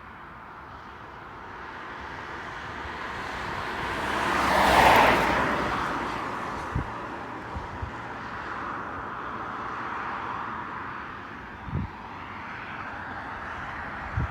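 Jet airliner passing by, its engine noise swelling for about four seconds to a loud peak and then fading to a steady distant rumble. A few light knocks come partway through.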